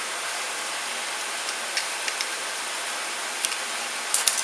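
Steady hiss under a few light clicks and taps of small parts being handled, with a quick cluster of sharper clicks near the end being the loudest.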